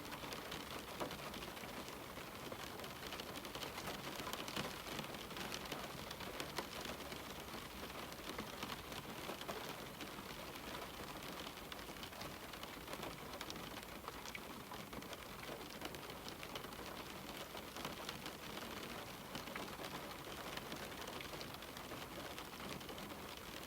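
Steady rain pattering on window glass, a continuous hiss dotted with the ticks of individual drops.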